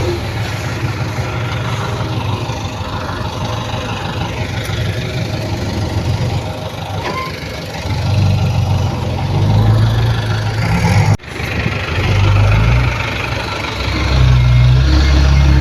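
Heavy machinery engines, from dump trucks and a bulldozer, running steadily. The engine note swells louder about eight seconds in and again near the end. The sound drops out very briefly about eleven seconds in.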